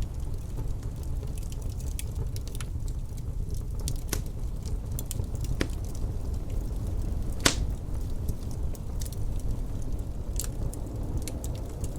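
Wood fire crackling, with scattered sharp pops, the strongest about seven and a half seconds in, over a steady low rumble of wind.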